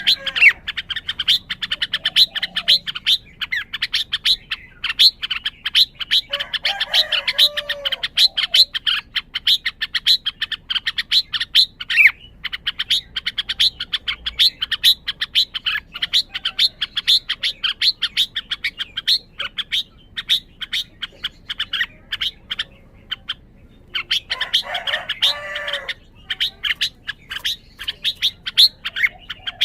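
Red-whiskered bulbul calling: a fast, unbroken run of high chirps, about six a second, broken by two short lower warbled song phrases, one about six seconds in and one near the end. The owner wonders whether this shows the bird is highly excited.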